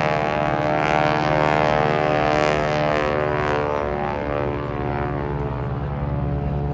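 Propeller aircraft engine droning in flight, its pitch sliding slightly lower and its sound easing off as it passes.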